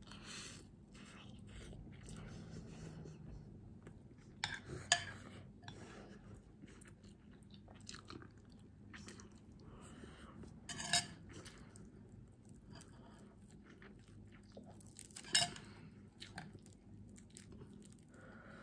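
Close-up chewing and mouth sounds of someone eating rice and fish. A metal spoon clinks sharply against the bowl three times.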